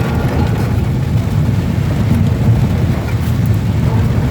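Steady low rumble of a car on the move, with no distinct knocks or changes.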